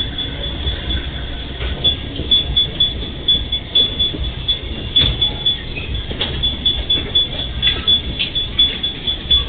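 Empty freight train rolling past: a low rumble with a run of repeated knocks from the wheels, and a thin, high, flickering squeal.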